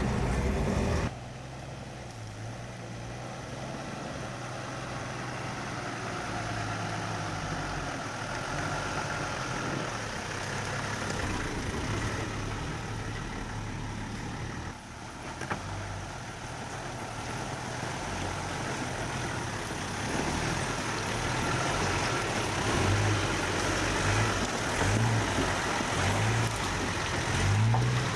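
A four-wheel-drive vehicle's engine running under load on a steep track, its low note wavering up and down near the end.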